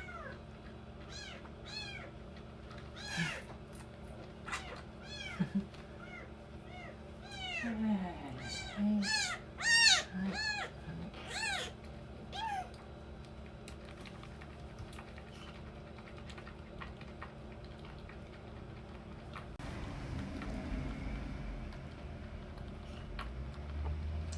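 Young kittens mewing repeatedly: a dozen or more short, high, rising-then-falling mews through the first dozen seconds, loudest around ten seconds in. After that the mewing stops, and a low rumbling noise comes in near the end.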